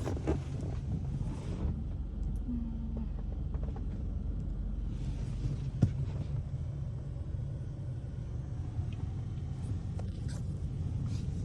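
Steady low rumble of a car driving in traffic, engine and road noise, with one sharp click about six seconds in.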